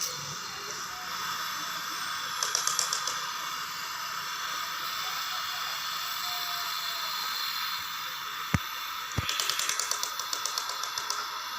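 A steady hiss with two bursts of rapid clicking, one about two and a half seconds in and a longer one near the end, and two sharp clicks just before the second burst.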